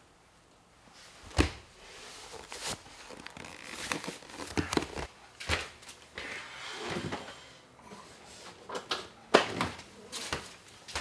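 Irregular knocks, thuds and clatters in a small room, like things being handled and set down, with a sharp knock about a second and a half in and the loudest one about two seconds before the end.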